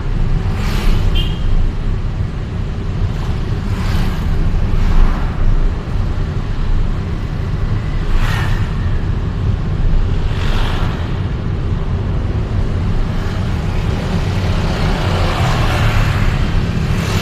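Street traffic: a steady low road and engine rumble, with several vehicles rushing past one after another.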